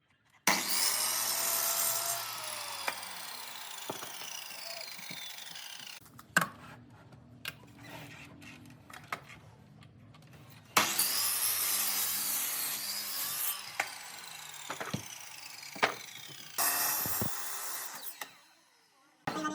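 An electric power tool working wood, run in three bursts. After each burst its motor whine falls as it spins down. Sharp knocks of wood and tool handling come between the bursts.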